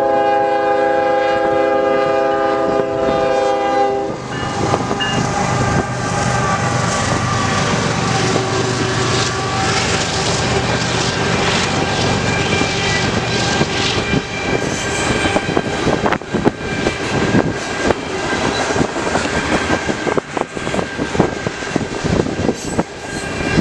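Diesel freight locomotive's air horn sounding a long chord that cuts off about four seconds in. Then the locomotives run past and a string of freight cars rolls by, wheels clacking over the rail joints.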